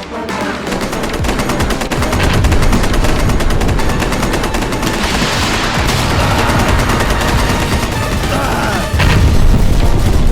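Rapid gunfire sound effects: machine-gun and rifle shots in quick, continuous succession, with a louder, deeper stretch near the end.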